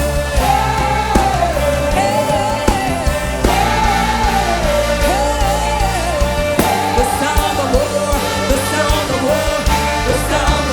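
Gospel worship song: a lead voice singing a flowing melody over a band with steady bass and drums.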